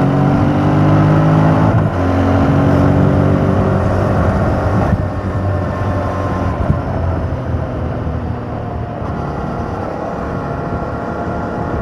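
Yamaha MT-07's parallel-twin engine through its stock exhaust, accelerating with a rising pitch and shifting gear about two seconds in and again about five seconds in, then running at a steadier pitch. Wind rush from riding speed lies underneath.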